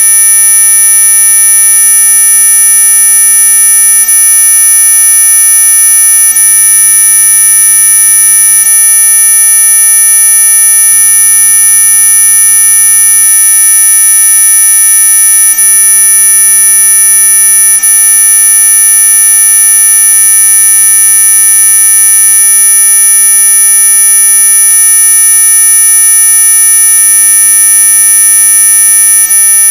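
Anti-mosquito repellent tone track: a loud, unbroken chord of steady electronic tones. The shrillest, very high-pitched tones are the strongest, and fainter lower tones sound beneath them.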